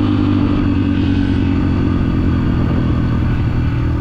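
Dirt bike engine running at a steady pitch while being ridden, easing off slightly near the end.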